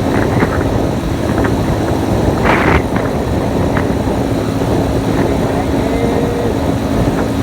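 Motorcycle riding on the road, heard from on board: a steady engine drone under heavy wind rumble, with a short rush of noise about two and a half seconds in.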